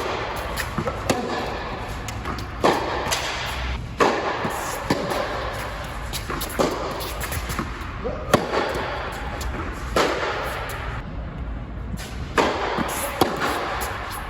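Tennis ball struck back and forth in a rally with a Yonex Percept 100D racquet and strings: sharp hits every second or two, with lighter ball bounces between them.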